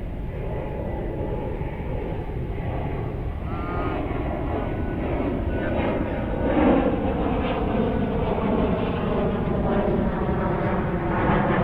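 A propeller airplane flying over: a droning engine tone that builds up about halfway through, then slides slowly down in pitch as it passes. Wind rumbles on the microphone throughout.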